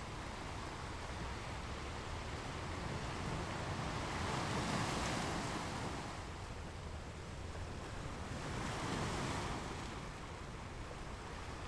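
Ocean waves washing onto a shore over a steady low surf rumble, swelling louder as a wave breaks about four to six seconds in and again about nine seconds in.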